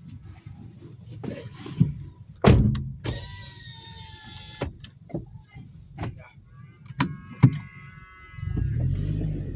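Knocks and thuds around a vehicle, the loudest about two and a half seconds in, with two drawn-out squeaking whines between them and a low rumble starting near the end.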